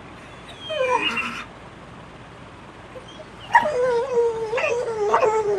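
Pit bull making vocal "talking" whines: a short falling whine about a second in, then a long drawn-out whine-moan from about three and a half seconds in whose pitch wavers and slowly falls.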